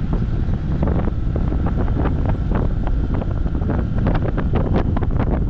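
Wind buffeting the microphone over a dual-sport motorcycle on the move, with frequent short sharp knocks and rattles throughout.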